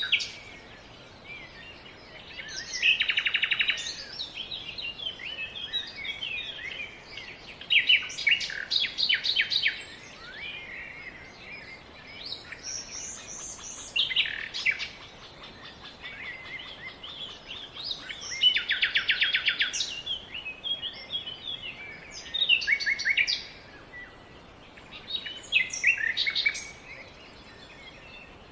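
Songbirds singing: a phrase of song every few seconds, several of them fast, rapid trills, over a steady outdoor hiss.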